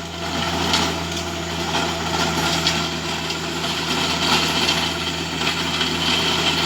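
Tractor engine running steadily while its tiller churns through heavy gumbo clay soil.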